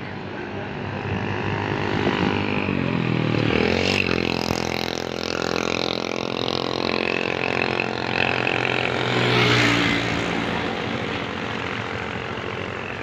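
Motorcycle engine of a homemade small truck running, speeding up about three seconds in and then holding a steady pitch, with a louder swell near the end.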